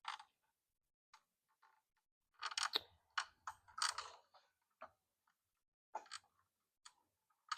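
Handling noise of a phone being picked up and repositioned: scattered clicks and knocks, with a dense cluster of rustling knocks about three to four seconds in.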